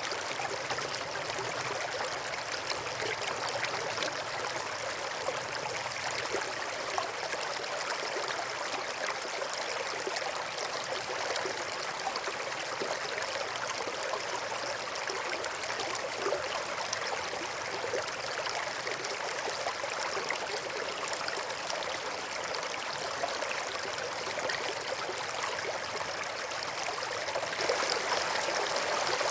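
Small stream running and trickling over stones in a steady rush of water, swelling slightly near the end.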